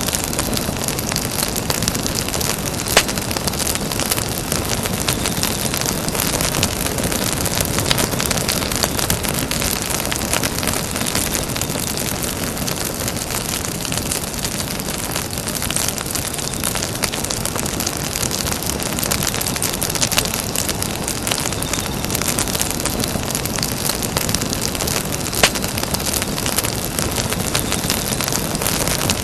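Campfire burning with a steady hiss and constant small crackles, with two louder pops, one about three seconds in and one near the end.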